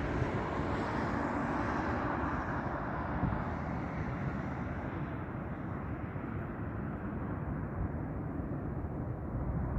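Jet airliner engines passing, a steady noisy rumble. The high hiss fades away about halfway through as the aircraft moves off.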